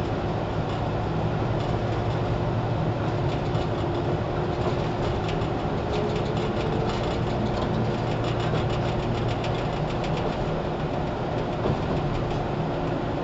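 413 series electric train running, heard from inside the motor car KuMoHa 413-4: a steady rumble of motors and running gear. A run of wheel clicks over rail joints comes through in the middle.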